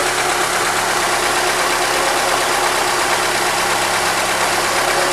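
GM Monza engine idling steadily, its spark plug leads firing normally.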